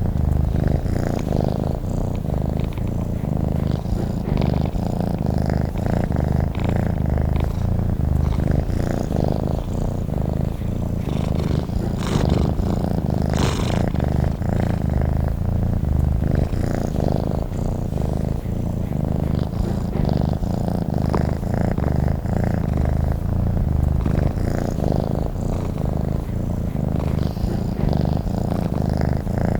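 Domestic cat purring steadily, a continuous low, fluttering rumble.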